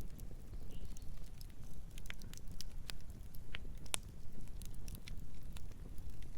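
Campfire burning: a steady low rumble of flames with scattered sharp crackles and pops of burning wood, a louder pop at the very end.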